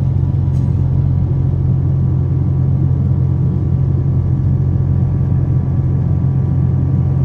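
Steady low rumble of a Boeing 777 airliner heard from inside the passenger cabin, even and unchanging throughout.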